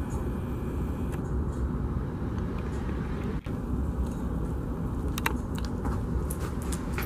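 Railroad train rumbling steadily, with a few short, sharp metallic clicks in the second half.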